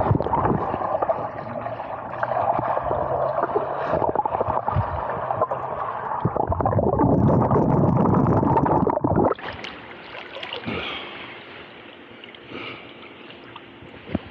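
Water churning and gurgling against a submerged Insta360 Go 2 action camera's microphone. It is loud, then cuts off abruptly about nine seconds in, giving way to a much quieter background with a faint steady hum and a short click near the end.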